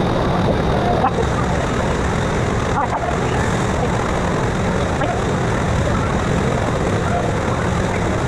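Loud, steady background din with faint, indistinct voices mixed in.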